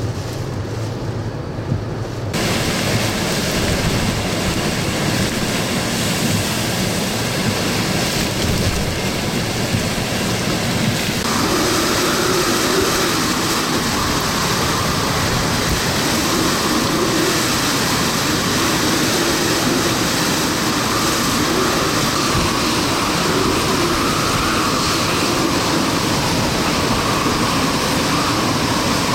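Hurricane-force wind and pounding waves, a loud steady rushing noise. From about 11 seconds in, a wavering whistling howl rises and falls over it.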